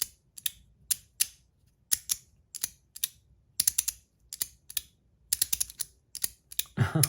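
3D-printed magnetic slider fidget being slid back and forth, its magnets snapping the sliding plates into place with sharp clicks. The clicks come irregularly, about two a second, some in quick pairs.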